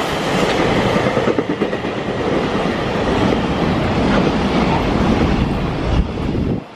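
Freight train passing close by at speed: a continuous rumble with wheels clattering over the rail joints, which drops away sharply near the end.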